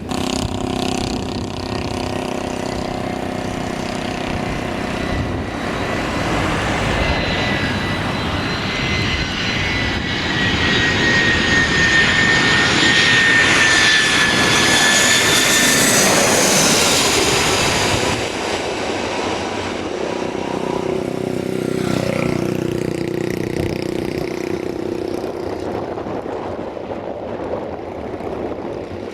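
Airliner passing close by, its engine noise swelling to a peak and then fading, with a high whine that drops slightly in pitch as it goes past.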